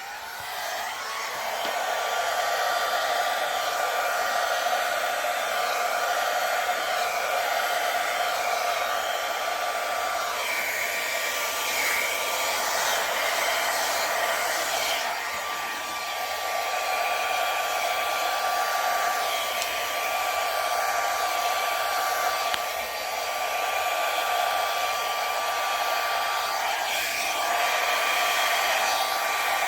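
Hair dryer blowing steadily, a whooshing rush of air with a thin steady whine, its level rising and dipping a little as it is moved about.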